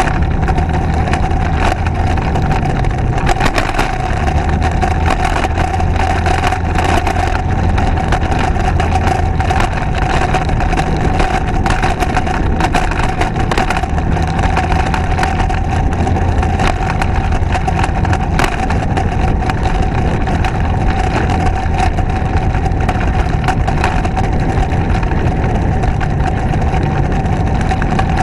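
Motorcycle engine running steadily while riding, with wind rush and frequent knocks and buffets on the microphone.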